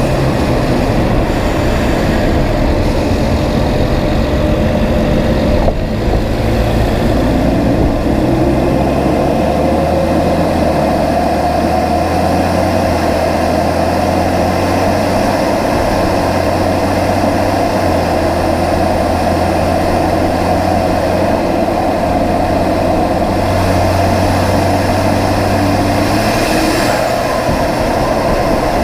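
BMW 335is N54 twin-turbo straight-six, fitted with aftermarket turbos, running steadily while the car drives along with road noise. The engine note holds fairly even, shifting slightly in pitch a few times.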